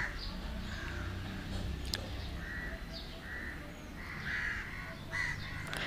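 Several faint, short, harsh bird calls, like crows cawing, repeated about once a second over a low steady hum, with one small click.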